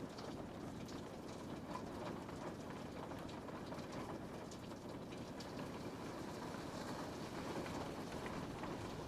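Steady rain on a window, an even hiss with many small drop ticks against the glass.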